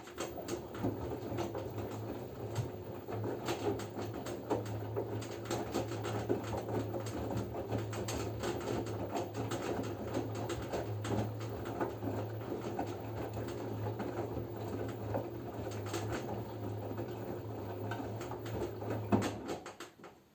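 LG F10B9LD front-loading washing machine in its wash phase: the drum turns with a steady low motor hum while the laundry tumbles, with a constant patter of clothes dropping. It stops abruptly about nineteen seconds in, the usual pause between tumbling spells in a wash cycle.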